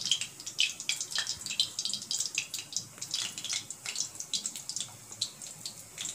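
Small crumbles of coarsely ground chana dal batter dropped into hot oil in a kadai, sizzling with rapid, irregular crackles and pops as they begin to fry.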